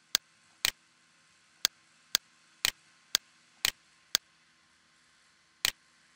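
Computer mouse button clicking: about nine sharp single clicks, mostly half a second apart with a longer pause before the last, as control points of a curve are picked and dragged. A faint steady low hum lies under them.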